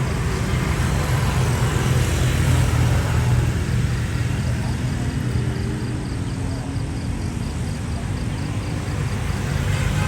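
Boeing 787-10 jet engines at taxi power: a steady low rumble with a faint hum.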